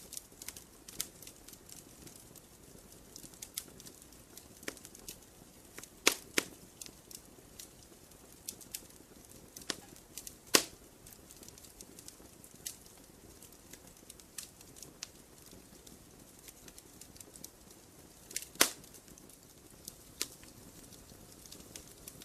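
Campfire wood crackling: irregular small snaps over a faint low hiss, with a few sharper, louder pops, about six seconds in, at ten and a half seconds and near eighteen and a half seconds.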